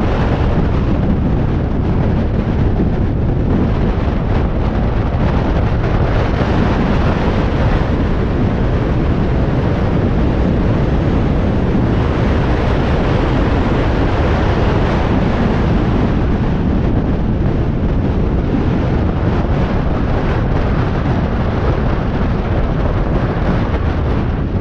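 Steady wind rush buffeting the microphone while riding a motorcycle, a loud dense rumble heaviest in the low end that masks any engine note.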